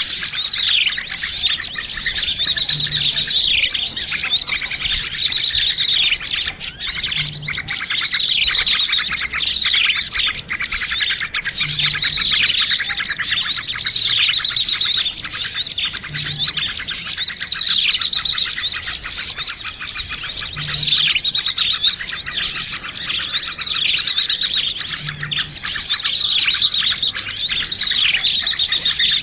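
Dense, noisy chorus of many small birds chirping and twittering over one another without a break: a bird-lure recording mixing several species' calls. A short low pulse recurs about every four and a half seconds.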